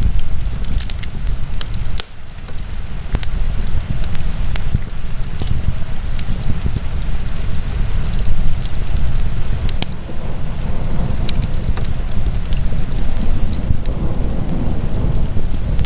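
Wood fire burning in a fireplace: irregular crackles and pops over a loud, steady low rumble, which dips briefly about two seconds in.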